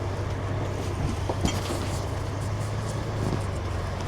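Truck's diesel engine running at low speed, heard from inside the cab as a steady low drone, with a sharp knock about one and a half seconds in.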